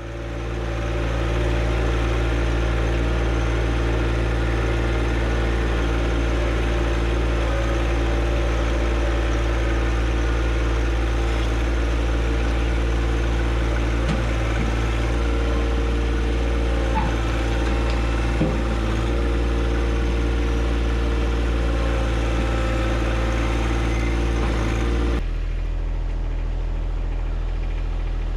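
John Deere 1025R compact tractor's diesel engine running steadily at a constant throttle. About three-quarters of the way through it drops to a lower, slightly quieter note as the throttle is eased back.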